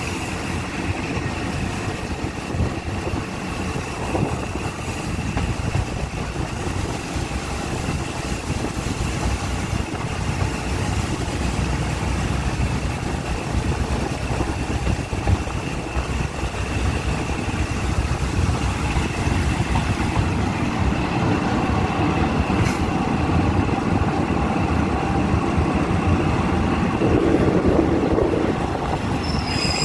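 Passenger train running along the track, heard from an open carriage window: a steady rumble of wheels on rails with a thin, steady high whine over it. It grows somewhat louder toward the end.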